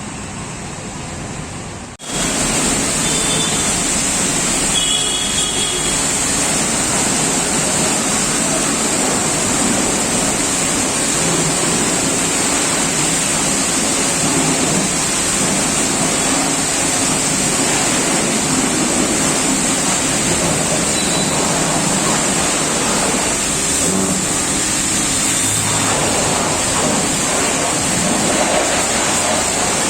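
High-pressure washer jet spraying water onto a scooter, at around 125 bar: a loud, steady hiss that starts suddenly about two seconds in, after a quieter stretch of background noise.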